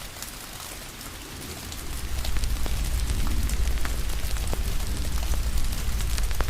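Steady rain hiss mixed with the scattered pops and crackles of a wood fire, over a low rumble that fades for about the first two seconds and then returns.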